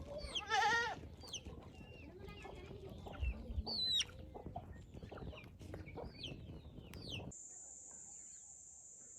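Farmyard chickens clucking, with many short high falling peeps like chicks, and one louder wavering call about half a second in. About seven seconds in, the sound cuts abruptly to a steady high-pitched insect drone.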